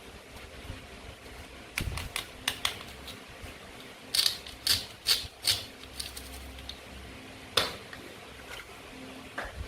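Toy play fruit and vegetables being cut and handled with a toy knife: a series of sharp clicks and clacks, a few about two seconds in, a quick cluster around four to five seconds, and one more near eight seconds.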